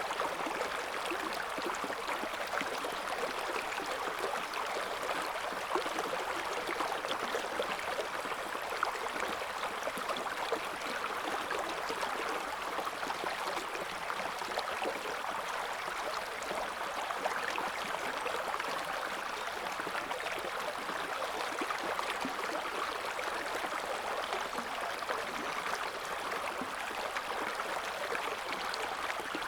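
Shallow river water flowing and babbling steadily over stones, a constant splashing rush with no low rumble.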